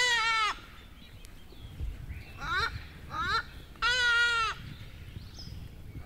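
A bird calling repeatedly, in groups of two short rising notes followed by one longer note that rises and falls. One group comes about two and a half seconds in, after a longer call right at the start.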